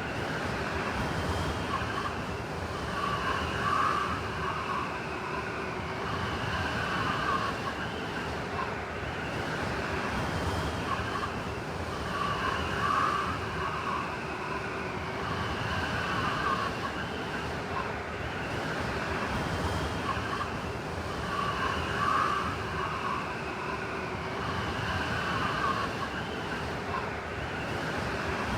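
Blizzard wind ambience: steady rushing wind with a howling whistle that swells and fades, the same pattern recurring about every nine seconds.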